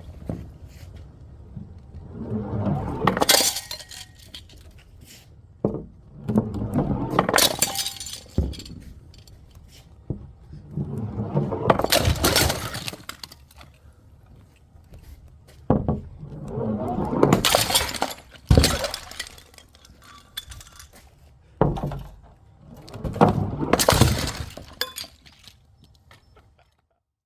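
Glass bottles smashing one after another, about six crashes spaced a few seconds apart, each with a spray of clinking glass shards.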